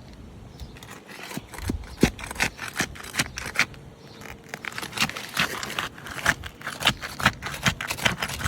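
Asphalt shingles being handled and lifted: rapid, irregular scraping and clicking of the gritty shingle surfaces rubbing together, starting about a second in.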